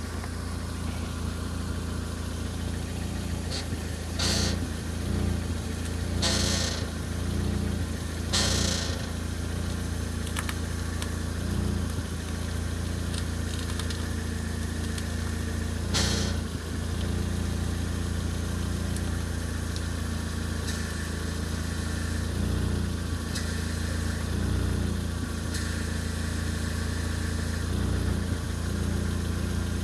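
Ford Focus ST170 engine idling while the steering wheel is turned, with the engine note swelling briefly several times under steering load. A few short, hissy squeaks come a few seconds apart, most of them in the first half. The owner blames the squeak on the power steering pump, which is noisiest on full lock.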